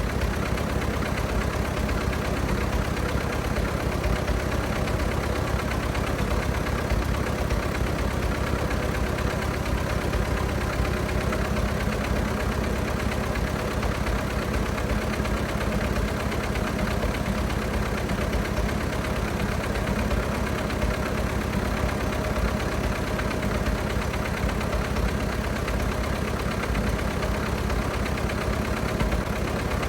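1924 Fordson F tractor's four-cylinder engine idling steadily at an even pace.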